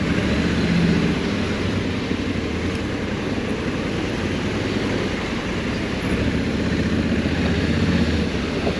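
Honda Africa Twin 1100's parallel-twin engine running at low speed, heard from on the motorcycle, with wind and road noise. The engine picks up slightly about a second in and again near the end.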